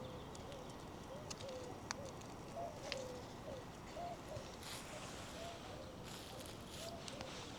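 A bird calling over and over in short, arched, low-pitched notes, about two a second. Footsteps click and scuff on the ground.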